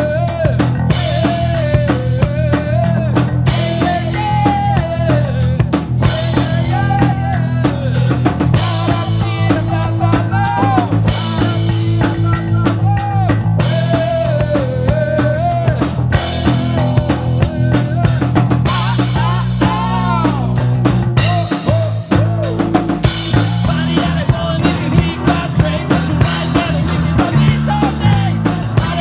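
Live rock band playing an instrumental break: drum kit with bass drum and snare keeping a steady beat under bass notes, while a lead guitar plays a melody with pitch bends.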